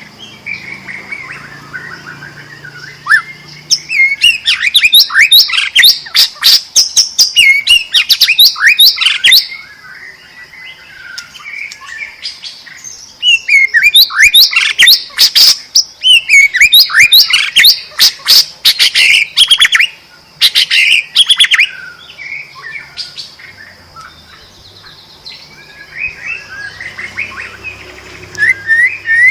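White-rumped shama in full, vigorous song (gacor): rapid runs of sweeping whistles and chattering notes that come in two long loud bursts, with softer song between them. A steady high-pitched tone sits beneath throughout.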